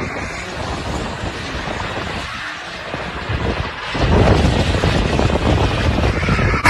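Vehicle noise with wind buffeting the microphone, turning much louder with a heavy low rumble about four seconds in.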